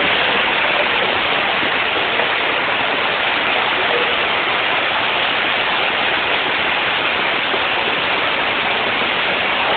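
Floodwater, mud and sewage rushing down a steep street like a waterfall in heavy rain: a steady, loud rush of water.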